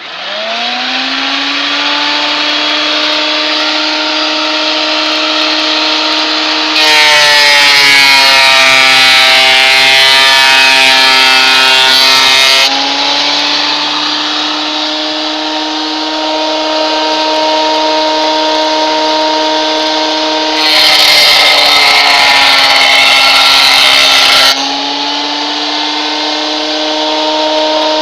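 Scheppach combination jointer-planer starting up, its motor and cutterhead spinning up to a steady whine, then taking two cutting passes through wood. During each pass, about 7 seconds in and again about 21 seconds in, a loud cutting noise rises over the whine and the motor's pitch drops under load, recovering when the board clears.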